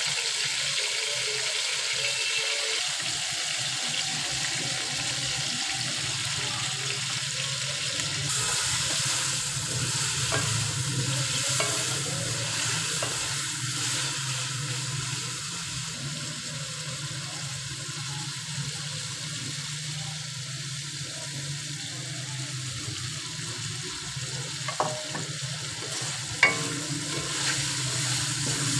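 Chicken pieces frying in oil in a metal wok: a steady sizzle, with a wooden spatula stirring and scraping through them, over a low steady hum. Two sharp taps come near the end.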